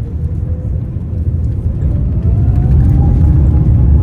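Airbus A350-900 takeoff roll heard inside the cabin: the Rolls-Royce Trent XWB engines at takeoff thrust and the runway rumble, growing louder about two seconds in, with a faint rising whine above.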